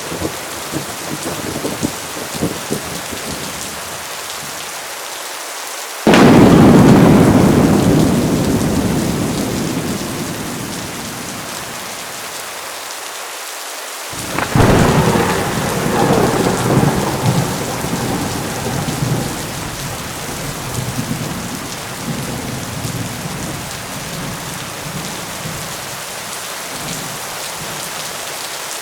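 Heavy rain falling steadily through a thunderstorm. About six seconds in a sudden loud thunderclap breaks and rolls away over several seconds. About halfway through a second peal of thunder cracks and rumbles on for several seconds.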